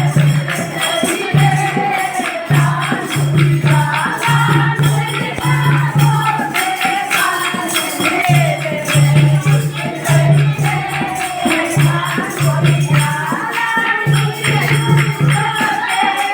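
A languriya bhajan, a Hindi devotional folk song, sung over a repeating drum beat with jangling tambourine-like jingles.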